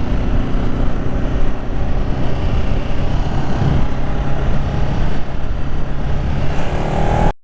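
Ducati Multistrada 1200 S's L-twin engine running while the bike is ridden, mixed with steady wind and road noise. The sound cuts off abruptly near the end.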